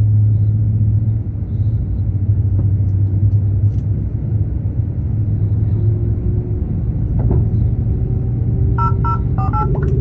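Steady low rumble inside the cabin of an Airbus A350-1000 on the ground during pushback. Near the end, a few short electronic tones sound briefly over it.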